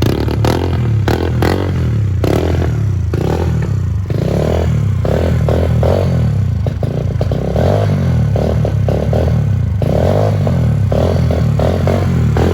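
Kawasaki KLX110L's small four-stroke single-cylinder engine running just after starting, its speed rising and falling a little with the throttle. It has been freshly fired up after sitting unridden for a few months.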